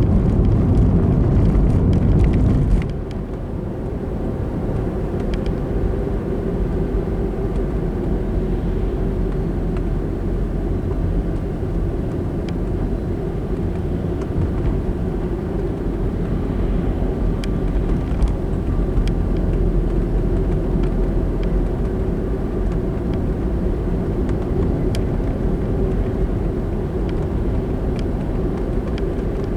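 Car road and engine rumble heard from inside the moving car, louder for the first three seconds, then dropping to a steady, lower rumble.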